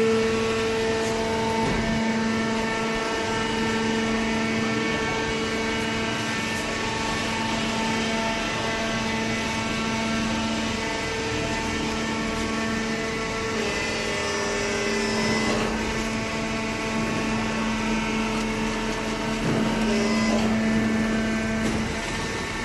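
Commercial cardboard baler running with a steady motor hum, its pitch shifting slightly about halfway through, with a few light knocks.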